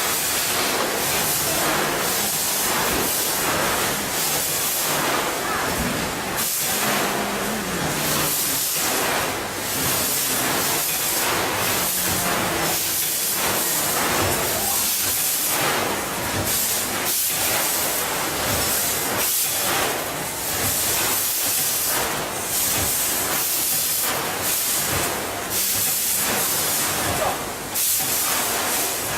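Automatic packaging machine running: a steady hiss with a dense, irregular clatter of small knocks throughout.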